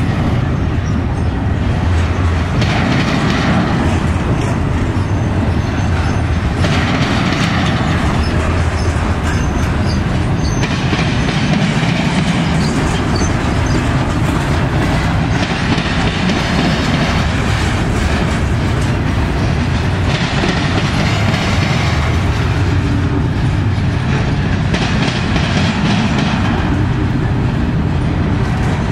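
Double-stack intermodal freight train's well cars rolling past close by: a loud, steady rumble and clatter of steel wheels on rail, its sound shifting every few seconds as the cars go by.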